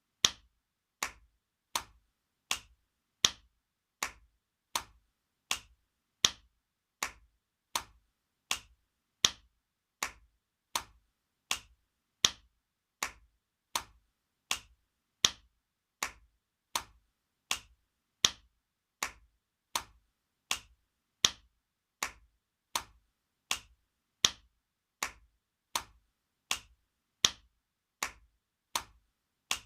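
Spanking sound effect: a sharp slap repeated over and over, about one every three-quarters of a second, some slaps louder than others.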